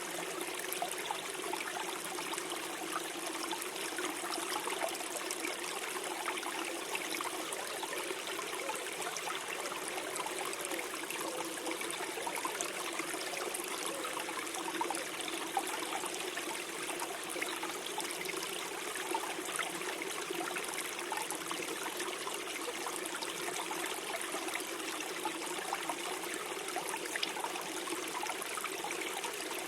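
Small forest stream flowing and gurgling steadily over stones, with a continuous rush of water and small splashes flickering through it.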